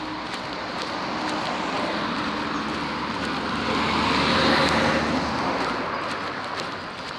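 A road vehicle passing close by, its engine and tyre noise growing louder to a peak about four and a half seconds in and then fading, over steady traffic noise.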